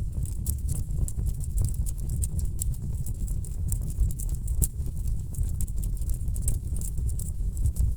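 Wood logs burning in a fireplace, crackling with dense, irregular pops and snaps over a steady low rumble of the fire. A louder pop comes about four and a half seconds in.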